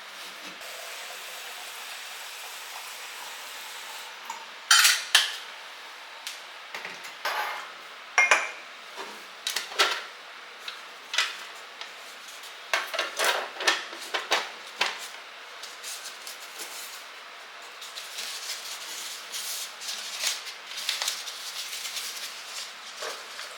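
Kitchenware clattering: dishes, pots and utensils being knocked, set down and handled, in several clusters of sharp clinks with short ringing.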